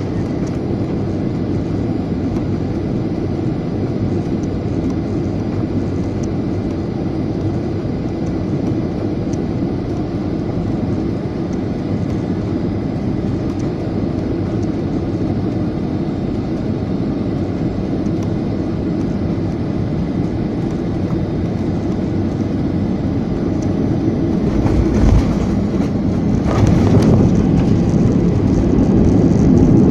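Airliner cabin noise during the landing: a steady rumble of engines and airflow. About 25 seconds in there is a low thump, and then the noise grows louder to the end.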